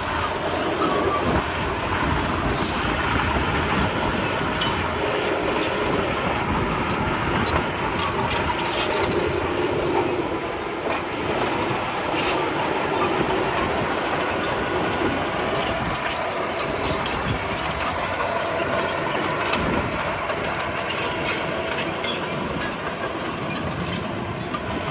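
Komatsu D31P crawler bulldozer working, its engine running steadily with scattered clanks and squeals from its steel tracks.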